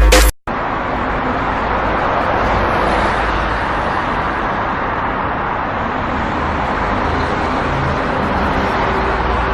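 Electronic music cuts off abruptly about half a second in, giving way to a steady rushing outdoor noise with a low rumble, like distant traffic.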